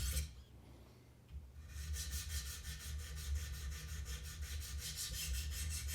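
Coarse stones of a Wicked Edge guided sharpener rubbing along a CPM-M4 knife edge in quick, evenly repeated strokes, several a second, starting after a short pause about two seconds in. This is the coarse-grit stage of setting the bevel, ground until the marker is gone. A steady low hum runs underneath.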